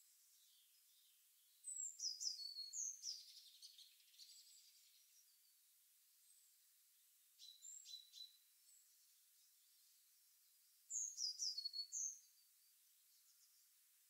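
A songbird singing two short, high song phrases about nine seconds apart, each a quick run of notes falling in pitch, with a briefer, quieter call between them.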